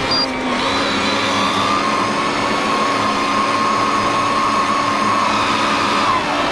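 Tractor engine running at a steady speed with a steady whine, which dips slightly near the end. A regular high beeping stops just after the start.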